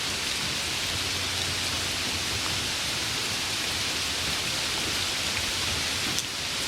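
Steady rain falling, an even hiss with a single sharp tick near the end.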